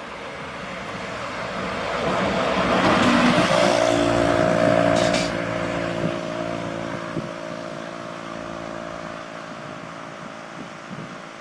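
A large truck pulls in, growing louder to a peak about three to five seconds in. There is a short hiss of air about five seconds in, then the diesel engine runs on steadily and more quietly.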